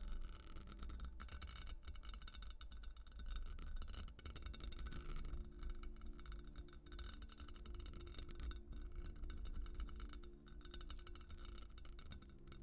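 Rapid, continuous scratching on a textured glass surface, a dense run of fine scratchy ticks, over soft sustained background music.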